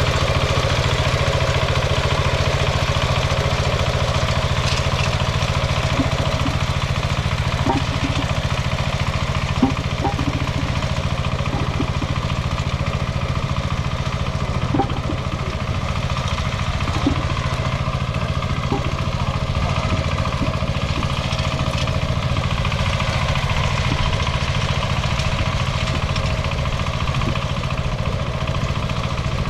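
Single-cylinder diesel engine of a Kentavr MB 1010DE-6 walk-behind tractor running steadily, with a few faint light knocks near the middle.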